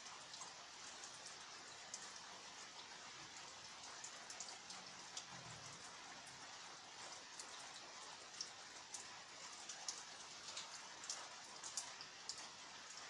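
Rain falling, a faint, even hiss with scattered sharp drops ticking on top, the drops more frequent in the second half.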